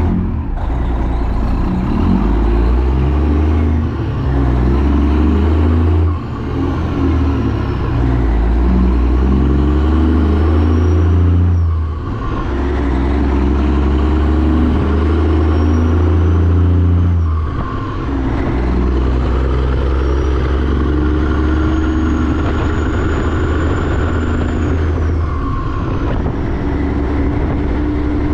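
Semi-truck diesel engine pulling through the gears: its pitch climbs, dips briefly at each of about four gear changes in the first eighteen seconds, then runs steadier, with a faint high whine rising and falling along with it.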